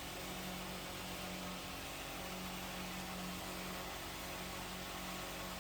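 Fiat Aifo Iveco 85 hp marine diesel engine idling with a steady low hum.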